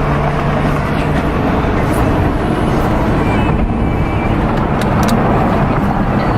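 A car driving, with steady engine and road noise; a low hum drops away about a second in.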